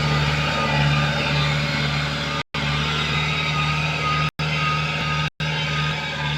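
ZT 155 tractor engine running at a steady speed with a constant low hum. The sound cuts out three times for a split second.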